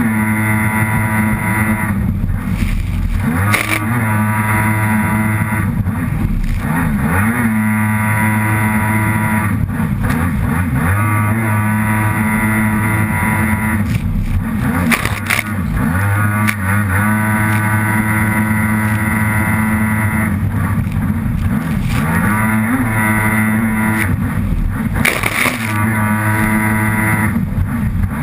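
Kawasaki SXR 800 stand-up jet ski's two-stroke twin engine running hard, its pitch rising and falling as the throttle is worked. A few brief bursts of rushing noise break in, about three and a half seconds in, midway, and near the end.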